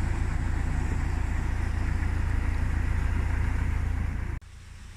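Narrowboat engine running steadily, a loud low rumble with a wash of noise above it; it cuts off abruptly about four seconds in, leaving a quieter hiss.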